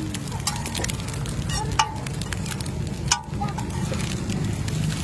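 Butter-fried eggs sizzling on a hot flat griddle. A metal spatula clinks and scrapes against the griddle several times, with the sharpest ringing strikes about two and three seconds in.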